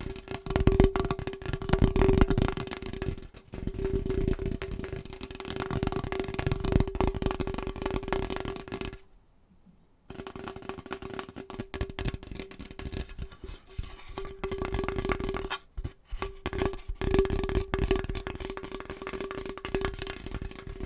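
Fast, aggressive fingertip and fingernail tapping on household objects: a dense, rapid run of clicks over a steady tone. It stops for about a second around nine seconds in, then resumes.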